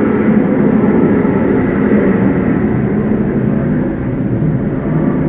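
Jet airliner engine noise, loud and steady, dropping a little about four seconds in.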